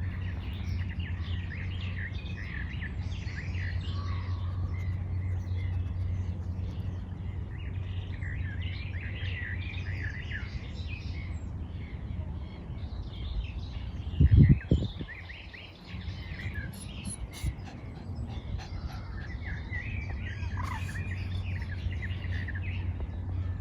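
Several songbirds chirping and singing, many short quick calls overlapping, over a steady low rumble. About fourteen seconds in there is one loud low thump, the loudest sound here, and the rumble briefly drops after it.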